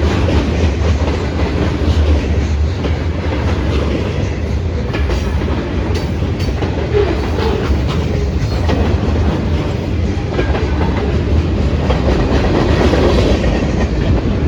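Freight train cars rolling past on the track: a steady low rumble with wheels clicking over the rail joints.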